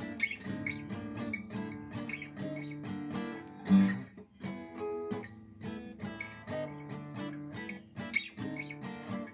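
Acoustic guitar strumming a steady rock-and-roll chord rhythm as an instrumental intro, with a hard accented strum about four seconds in.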